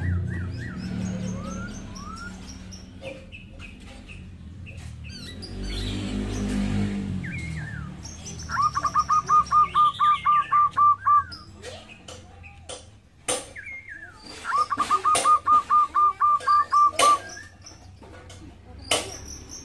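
Birds chirping, with one bird giving a fast run of about a dozen identical notes, twice, about eight and fourteen seconds in. A few short sharp clicks are heard between the runs.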